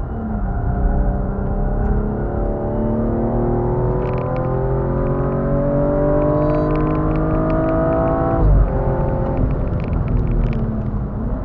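BMW M135i xDrive's turbocharged straight-six heard from inside the cabin, pulling hard under full throttle with its pitch rising steadily for about eight seconds. It then cuts off sharply with a brief thump as the driver lifts for the next corner, and picks up again near the end.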